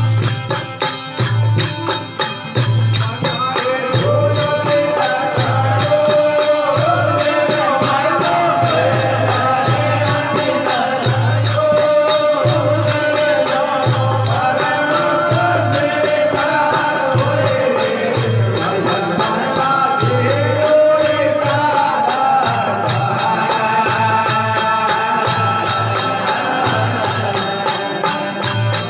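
Rajasthani folk bhajan music: a wavering melody line carried over steady, evenly repeating low drum beats and a continuous jingling of small metal percussion in time.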